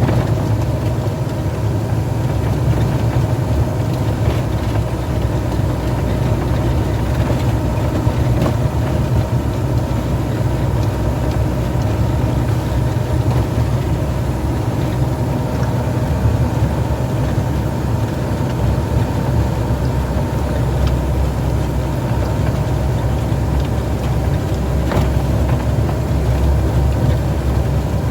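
Truck engine running steadily at an even pitch.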